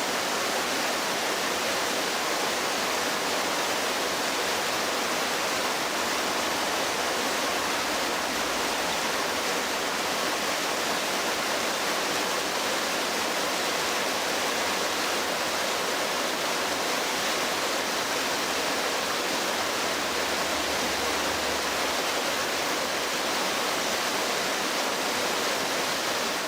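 Rushing floodwater: a steady, unbroken rush of fast-flowing water.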